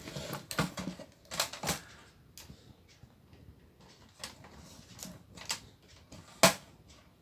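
Scattered small clicks and taps from handling the TV's backlight connector and tester leads on the LED strips, with one sharper click about six and a half seconds in.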